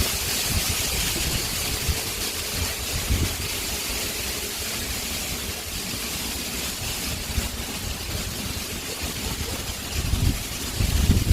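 Wind blowing across the microphone: a steady hiss with irregular low rumbling gusts, a stronger gust coming near the end.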